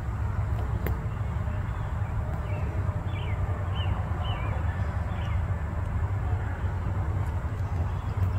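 A steady low rumble, with a bird giving several short chirps that glide downward between about two and five seconds in. A single sharp click comes about a second in.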